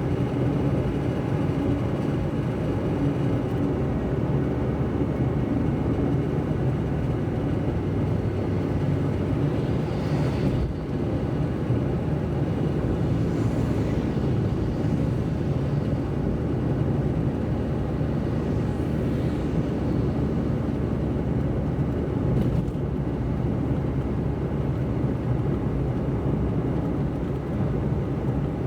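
A car driving along: a steady low rumble of engine and tyre road noise on a wet road, with a few brief swells of hiss as other vehicles pass.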